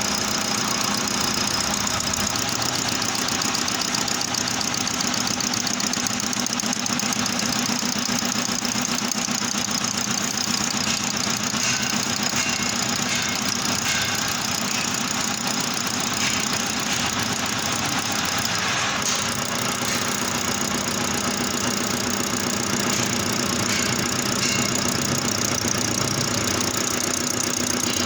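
Manual metal lathe running steadily, a low hum with a high whine above it; the sound changes about two-thirds of the way through.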